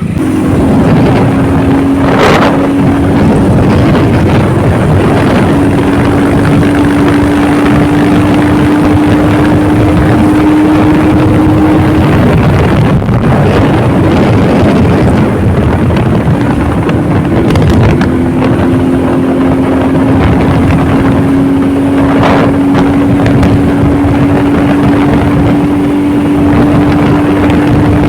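Motorcycle riding at a steady cruise: the engine holds an even note under heavy wind noise on the microphone, the note fading for a few seconds about halfway through before returning.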